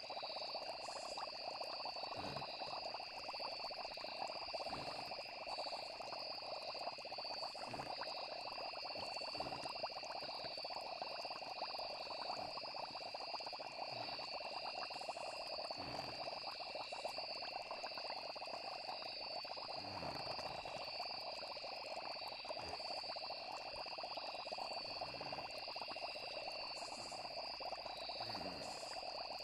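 Night nature ambience: a steady high trill of insects such as crickets over a dense, crackling frog chorus, with soft low pops every second or two.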